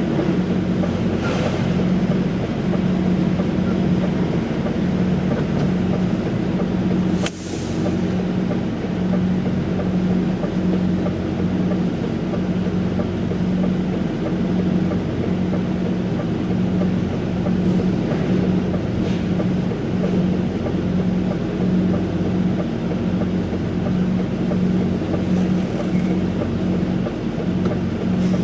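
Cab interior of a DAF XF105.460 truck on the move: the engine drones steadily under road and tyre noise. A single sharp click with a brief dip in level comes about seven seconds in.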